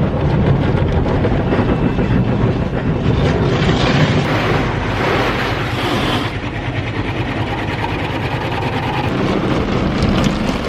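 Automatic car wash running over the car, heard from inside the cabin: a loud, steady rush of spray and rumble, hissing more brightly between about three and six seconds in.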